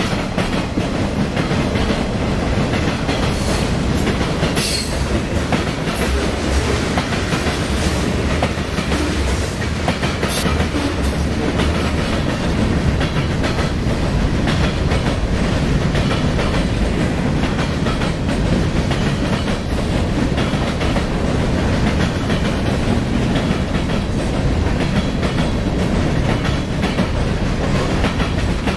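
CSX freight train's cars rolling past up close: steel wheels clicking and clacking over the rail joints in a loud, steady rumble.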